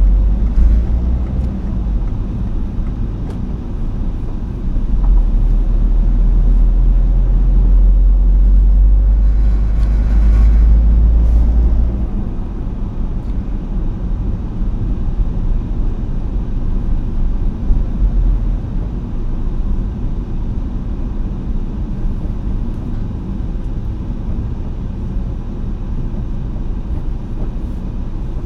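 A road vehicle driving, with a steady low rumble. The rumble swells for several seconds from about five seconds in, with a short hiss around ten seconds in, then settles lower.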